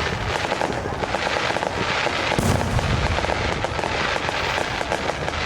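Fireworks: a continuous dense crackle of many small bursts, with a louder bang about two and a half seconds in.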